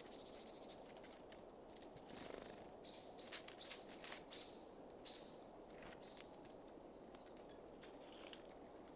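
Small songbirds calling faintly over a low outdoor hiss: a row of about six short calls, then a quick run of about five very high, thin notes.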